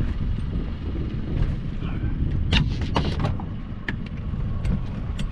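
Wind rumbling on the microphone aboard a small boat. From about two and a half seconds in come several sharp knocks and clatters as a crab trap is hauled up.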